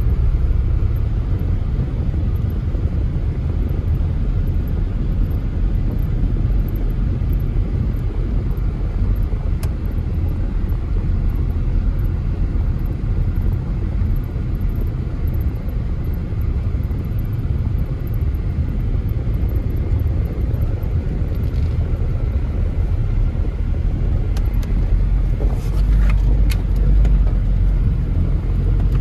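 Off-road SUV engine running with a steady low rumble, a few light knocks in the second half, and the rumble growing heavier near the end.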